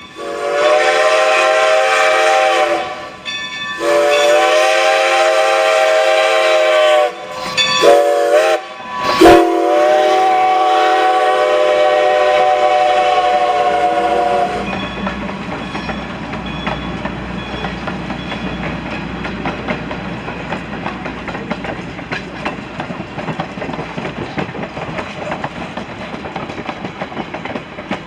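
Strasburg Rail Road No. 90, a 2-10-0 steam locomotive, sounding its steam whistle in the grade-crossing pattern: long, long, short, long, the last blast held about five seconds. Its train then rolls by with a steady rumble and rapid wheel clatter on the rails.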